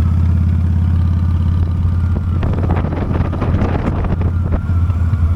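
Honda Steed V-twin motorcycle engine running steadily while riding, with a cluster of knocks and rattles in the middle.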